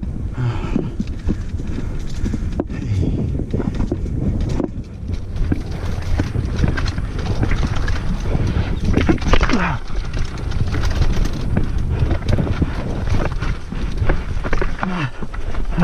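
Mountain bike rattling and clattering over a rough trail, with wind buffeting the helmet- or bike-mounted action camera's microphone. A few short falling pitched sounds break through in the second half.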